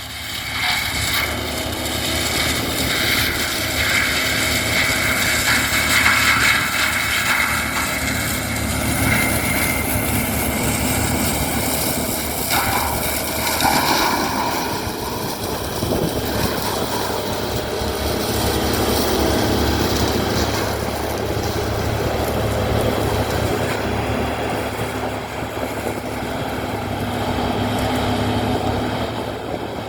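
A heavy Prentice forestry machine running, its diesel engine droning steadily with a loud, shifting mechanical din over it.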